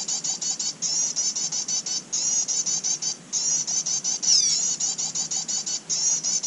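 Prinia (prenjak) calling: a fast string of short, high, down-slurred chirps, about seven a second, in phrases with brief breaks, with one longer falling note about four seconds in.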